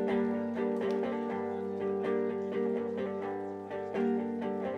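Acoustic guitar playing an instrumental passage of a live song, sustained chords with a steady picked rhythm.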